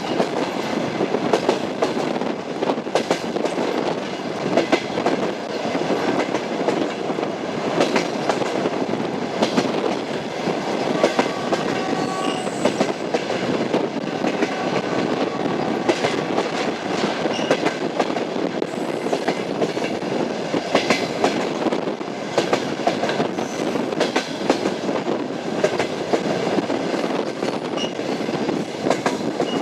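Train running along the track: a steady rumble with the wheels' clickety-clack over the rail joints.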